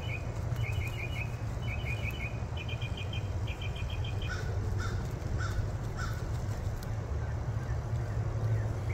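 A bird calling in short, rapid rattling phrases, one about every second, which stop about halfway; a steady low hum runs underneath.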